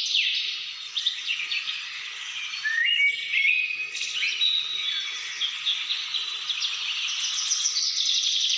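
Several birds singing and chirping at once, with many overlapping rapid trills and short stepped and gliding whistled notes.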